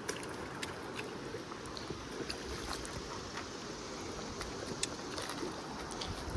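Steady rush of river water flowing over rocks, with scattered light clicks.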